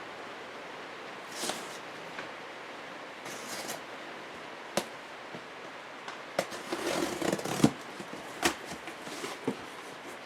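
A cardboard shipping box being handled and opened, with scrapes and rustles of cardboard and packing broken by sharp clicks and taps. The handling gets busier in the second half, where the loudest click comes.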